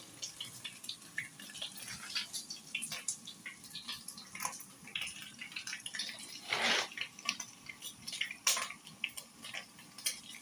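Beef pieces frying in hot cooking oil in a pot as they brown, with irregular crackles and pops. One louder spit of noise comes about two-thirds of the way through.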